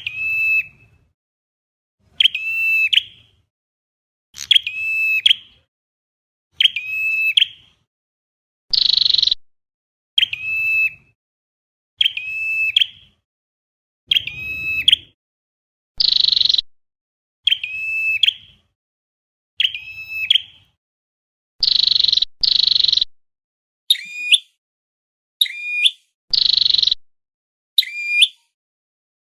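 Flowerpecker (chim sâu đầu đỏ) call recording played for a bird-trapping lure. It gives short, sharp, high call notes repeated about every one and a half seconds, with a few harsher, higher-pitched calls mixed in.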